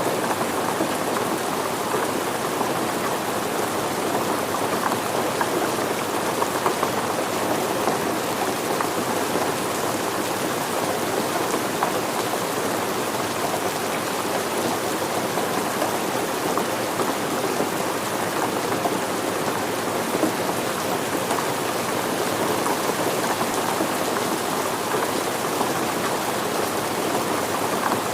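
Steady rain falling on surfaces, a dense even patter of drops with no let-up.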